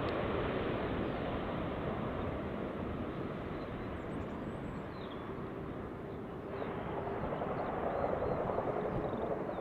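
Jet airliner noise on final approach: a broad roar that slowly fades over the first half, then builds again about two thirds of the way in as another aircraft approaches, with a faint steady whine.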